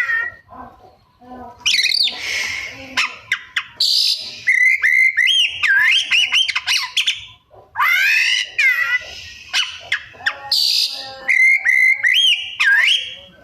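Oriental magpie-robin (kacer) singing a varied song of rapidly rising and falling whistles mixed with harsh rasping notes, the mimicked phrases keepers call isian. The same sequence comes twice, about six seconds apart.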